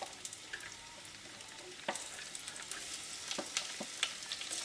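Diced onion and garlic sizzling in hot olive oil in a Dutch oven, a steady hiss with scattered sharp crackles. About two seconds in there is a click and the sizzle gets a little louder as more onion drops into the oil.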